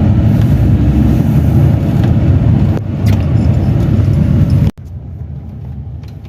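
A car driving, with a steady low rumble from road and engine. About four and a half seconds in it cuts off suddenly to a much quieter background.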